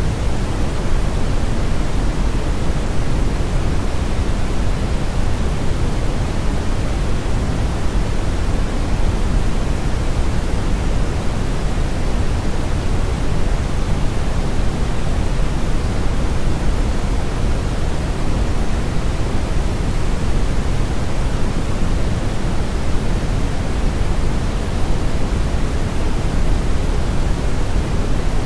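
Steady brown noise, a constant rushing hiss weighted heavily toward the low end and unchanging throughout.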